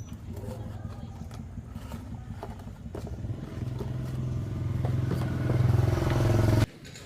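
A 110cc motorcycle engine running, getting louder about halfway through, then cutting off suddenly near the end.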